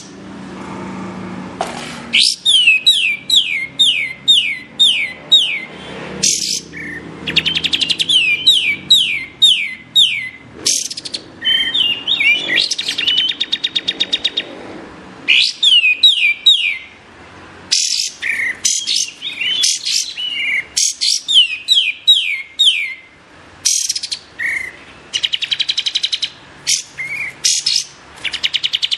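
Kapas tembak singing: repeated phrases of quick, high downward-sweeping whistles and fast trills, each phrase a second or two long with short pauses between.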